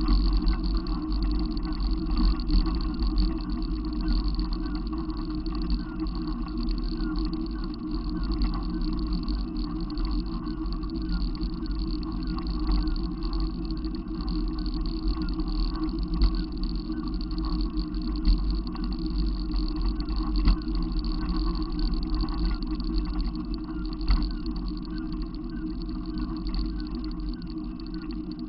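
Steady low rumble of a running motor vehicle, continuous throughout, with no distinct events.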